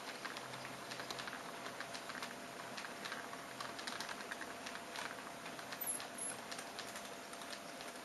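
Märklin H0 model train running on K-track: a quick, irregular clicking of small metal wheels over the rail joints and points, over a faint steady hum.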